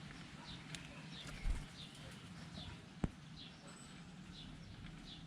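A small bird calling over and over with a short chirp that drops in pitch, about two a second at an even pace. A single sharp click about three seconds in.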